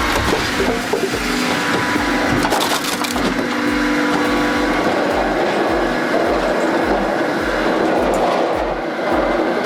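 A firewood processor splitting and crushing wood, with cracking and splintering. Background music with a steady deep beat about twice a second runs underneath.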